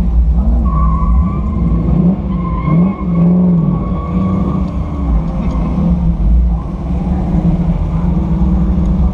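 Sunbeam Tiger's Ford V8 engine running at a moderate parade-lap pace, mixed with wind rush, heard from inside the open car. The engine note rises and falls a few times in the first few seconds, then settles.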